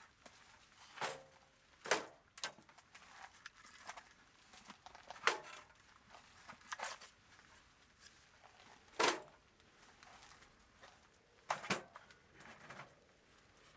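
Irregular rustling and crinkling, as of gear being handled, in short separate strokes a second or more apart.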